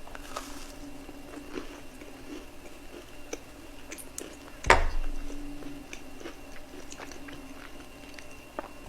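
Close-miked eating: chewing with small wet mouth clicks, and one loud sudden bite or knock a little under five seconds in.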